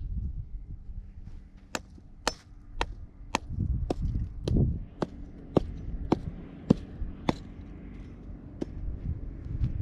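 About a dozen sharp striking blows, roughly two a second for several seconds, then one more after a pause, over a low rumble.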